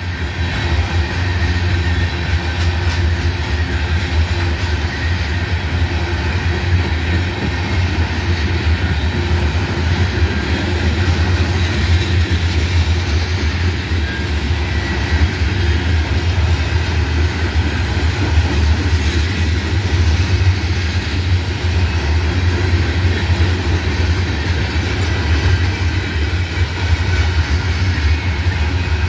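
A freight train of grain hopper cars rolling past: a steady, loud rumble of steel wheels on the rails.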